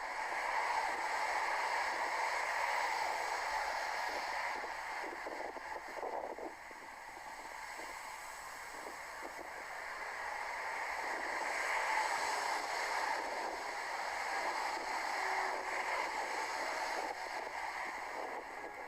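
Strong gusty wind noise on the microphone, a steady rushing that eases off for a few seconds and swells again.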